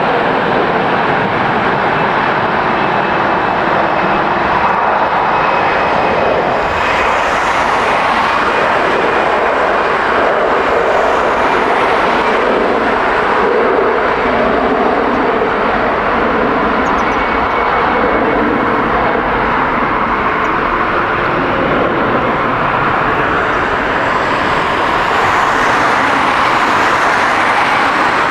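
Jet airliner engines close by, a loud steady roar with a faint high whine running through it.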